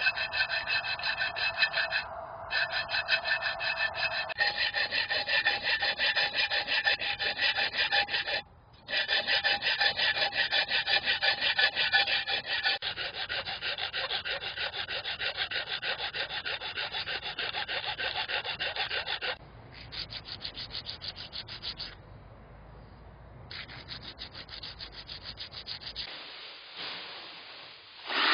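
Steel ammo can being rasped by a hand tool in quick, evenly repeated strokes, the can's metal ringing with several steady tones over the scraping. The work stops briefly a few times.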